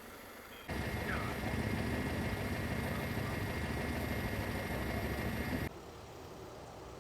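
A heavy vehicle engine running steadily with a low rumble. It cuts in abruptly about a second in and cuts out abruptly about five seconds later.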